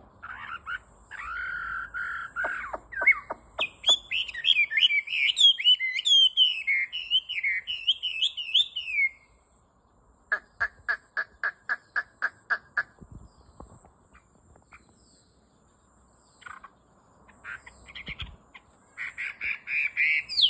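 Large songbird singing: a held whistle, then a long run of varied warbling phrases, a fast string of repeated notes at about four a second, a quieter stretch, and the song starting again near the end.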